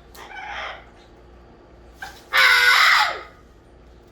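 Parrot screeching: a fainter harsh squawk near the start, then a loud, harsh scream about two seconds in that lasts under a second.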